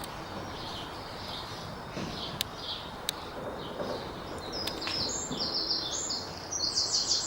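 Small birds chirping in repeated short notes, building into a fast, louder run of chirps from about five seconds in. Two faint clicks come a little earlier.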